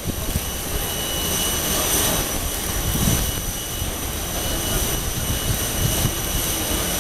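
Airbus A320-200 jet engines running during landing: a steady, even engine noise with a thin high whine over it and occasional low thumps.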